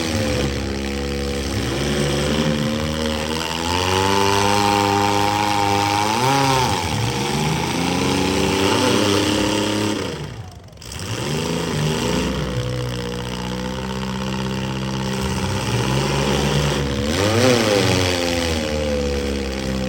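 Several compact and midsize car engines revving in a demolition derby, their pitch rising and falling again and again as the cars accelerate and back off. The sound dips briefly about halfway through.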